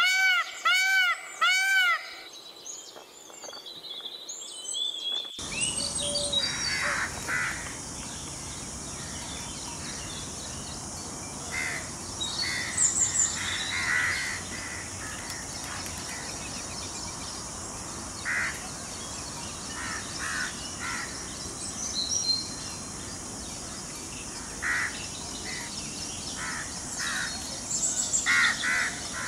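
Wild birds calling outdoors. At the start there is a quick run of rising-and-falling whistled calls that stops about two seconds in. From about five seconds in, short harsh calls sound again and again at uneven intervals over a steady high hiss.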